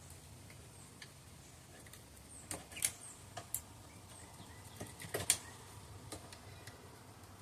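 Scattered light clicks, snips and taps of hand work on a rubber grommet being trimmed down, in two short clusters with quiet between them.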